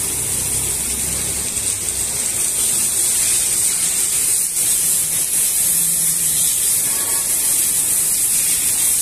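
Rain falling steadily, an even hiss, with a low hum that fades out about two seconds in.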